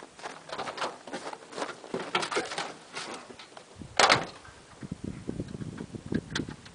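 Truck door and cab handling: clicks and rustling, then a loud door slam about four seconds in. Just before the slam, a low uneven rumble begins from the pickup's cold 4.3 V6 as it is cranked over to start.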